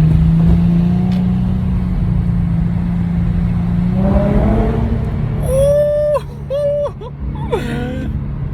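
Infiniti G's V6 pulling through a custom mid-pipe-back exhaust, a steady deep note that is not too loud and not too raspy, easing off about halfway through. Near the end a few short high-pitched tones cut in over it.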